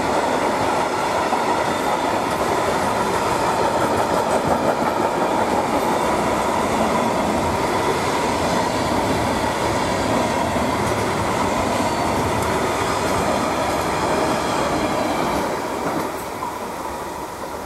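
Container flat wagons of a freight train rolling past on jointed track, steel wheels on rails giving a steady rolling din with clickety-clack and a steady ringing tone. About sixteen seconds in the last wagon passes and the sound fades away.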